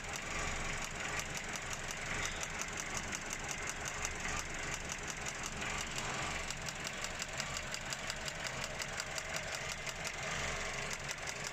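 Vauxhall Corsa 1.3 petrol engine idling with a rapid, regular ticking and an uneven beat: a misfire in one of its cylinders, a loud noise.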